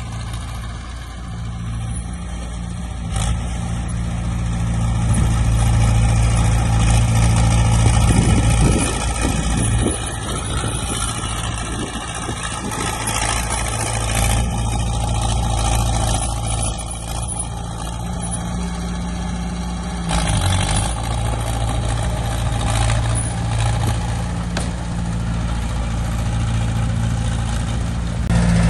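Heavy diesel earthmoving machinery running, a steady low engine drone that builds in loudness over the first several seconds and eases off about ten seconds in.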